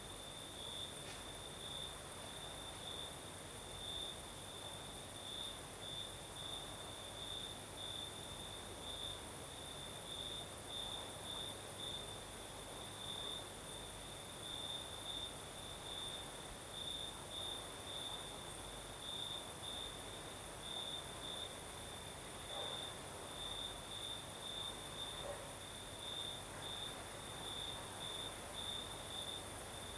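Crickets singing at night: a high chirping song that swells in uneven pulses about once or twice a second, over a steadier, even higher insect trill.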